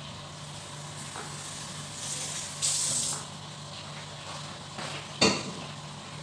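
Curry leaves, cinnamon bark and onion sizzling in a wok over a gas flame, over a steady low hum. A louder hiss swells for about a second near the middle, and a sharp clatter of something hard being set down comes about five seconds in.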